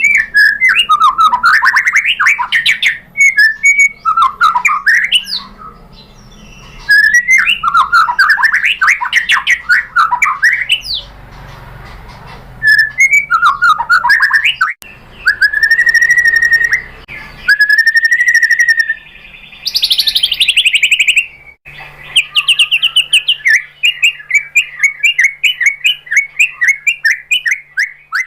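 White-rumped shama singing: loud, fast phrases of varied whistles and sweeping notes broken by short pauses. About halfway through comes a long, steady whistled note followed by a high, fast trill, and the last few seconds hold a quick run of repeated notes.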